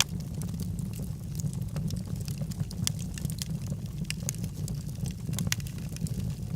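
Logs burning in a fireplace, crackling: many irregular sharp pops and snaps over a steady low rumble of the fire.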